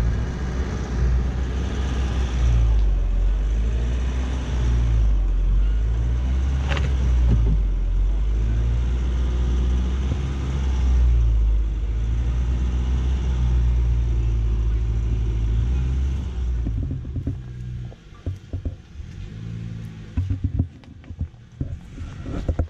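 Jeep engine running under load with a heavy low rumble, its note rising and falling as it drives the trail, with a sharp knock about seven seconds in. Near the end the engine drops away and a string of knocks and bumps follows.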